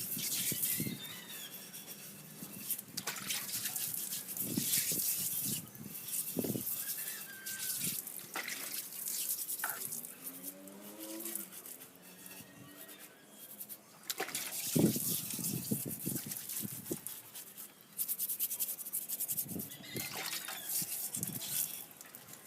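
Earthenware jar being scrubbed and rinsed with water: irregular scratchy scrubbing strokes and splashes. An animal calls briefly about halfway through.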